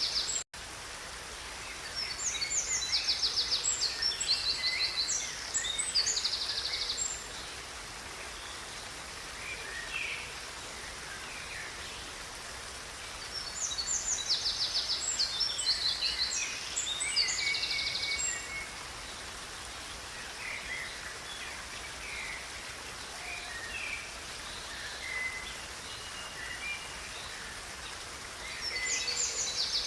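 Songbirds singing rapid, high trilled phrases over the steady rush of a river. The song comes in two long bursts and again near the end, and the sound briefly cuts out about half a second in.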